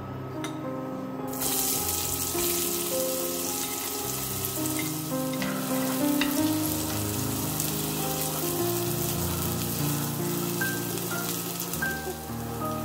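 Chopped onion sizzling in hot olive oil in a non-stick frying pan. The sizzle starts suddenly about a second in as the onion hits the oil, then holds steady while it is stirred. Background music plays alongside.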